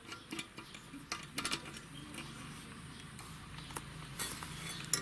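Irregular metallic clicks and clinks of hand tools on motorcycle parts, with a faint steady low hum from about two seconds in.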